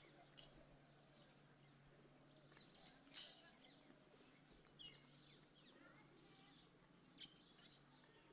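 Near silence: faint room tone with a few faint bird chirps in the background and a faint click about three seconds in.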